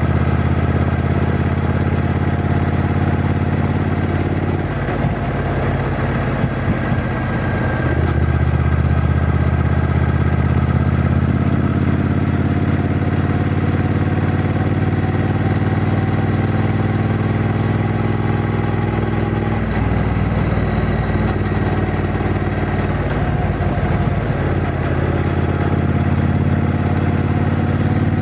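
Triumph Bonneville T120's 1200 cc parallel-twin engine running while the motorcycle is ridden, heard from the rider's position. The engine note changes a few times, about five, eight and twenty seconds in.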